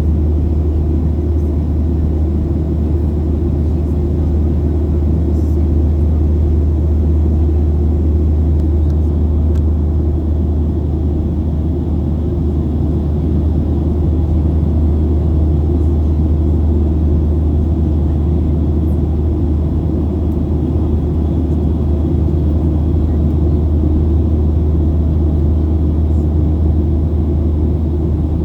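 Steady, unchanging low rumble of a Boeing 737 in flight, jet engines and airflow heard from inside the cabin.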